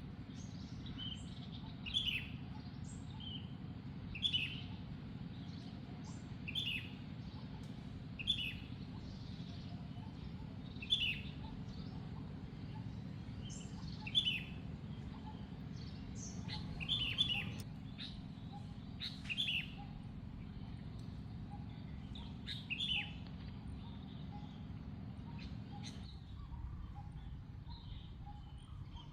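A bird chirping, a short high call repeated about every two seconds, over a steady low hum.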